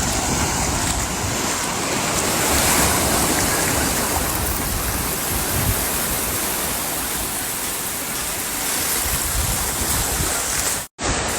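Sea surf washing on the beach, a steady rushing noise with wind rumbling on the microphone. The sound cuts out completely for a moment near the end.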